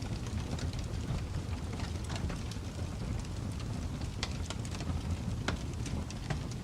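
Wood fire burning, with a steady low rumble of flames and irregular sharp crackles and pops of burning wood.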